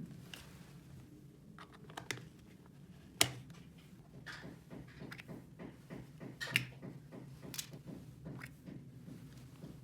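Light scattered clicks and taps of small plastic toy pieces being handled, the sharpest about three seconds in, over a faint steady hum.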